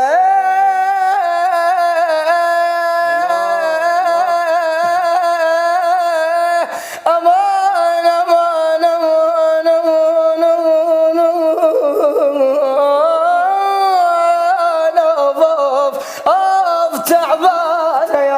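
A man singing a slow melismatic chant in the Iraqi munshid style, holding long wavering notes that glide up and down. There is a short break about 7 seconds in.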